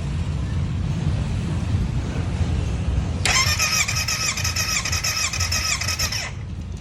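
Kawasaki Z900 inline-four engine cranked on its electric starter without firing, as for a compression test. The starter whine dips in pitch in a regular pulse several times a second as the compression strokes load it. It lasts about three seconds, starting about a third of the way in and cutting off abruptly, over a steady low rumble.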